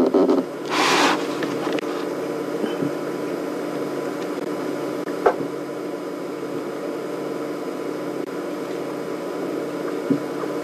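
Steady mechanical hum made up of several fixed tones, with a brief hiss about a second in and a sharp click about halfway through and another near the end.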